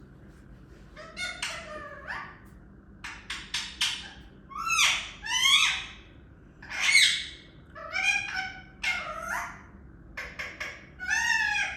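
Talking parrot calling in a quick string of short whistles, squawks and chattering sounds that sweep up and down in pitch, with a few sharp clicks among them.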